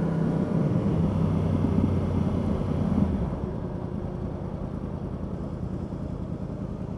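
Yamaha R1 motorcycle's inline-four engine running under way, with wind and road rumble on a helmet-mounted mic. About three seconds in the engine note drops away and the sound gets quieter as the bike eases off.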